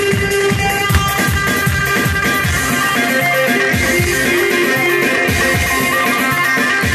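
Live halay dance music from a wedding band: a plucked-string melody over a fast, steady drum beat.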